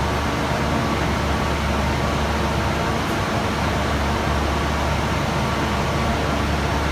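Steady mechanical hum with a low drone and a hiss, holding at one pitch without rising or falling.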